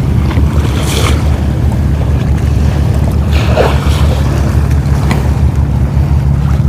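Wind buffeting the microphone in a steady low rumble over the wash of beach surf.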